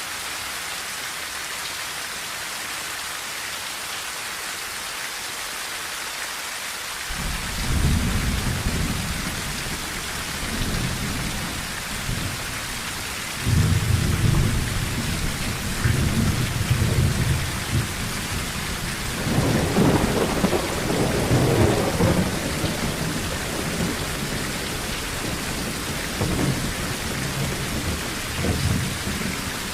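Rain falling steadily on a tin roof, with thunder that starts rumbling about seven seconds in, grows suddenly louder about halfway, swells again a few seconds later and keeps rolling.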